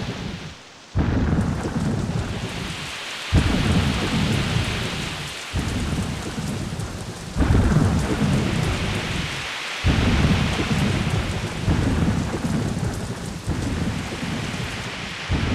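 Rainstorm sound effect: a steady hiss of heavy rain, with loud low rumbles that start abruptly and die away about every two seconds.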